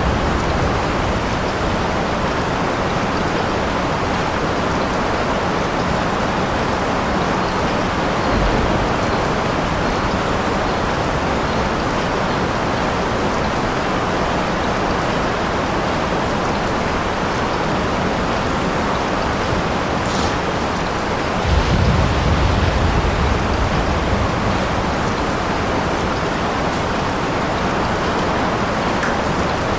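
Steady rain falling without letup, with a low rumble of thunder swelling about two-thirds of the way through and fading over a few seconds.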